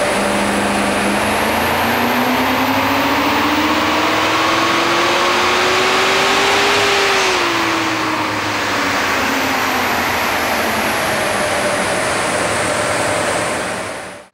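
5.4-litre V8 of a 2009 FPV XR8 GS making a full-throttle run on a chassis dynamometer: the revs climb steadily for about seven seconds, then the throttle closes and the engine and rollers wind down.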